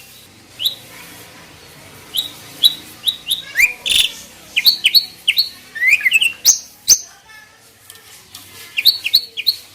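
Songbird chirping in quick series of short, sharp whistled notes and rising slurs, with a few sharp clicks mixed in; a lull falls just past the middle before a last burst of chirps near the end. It is a bird-song master recording played to train captive starlings.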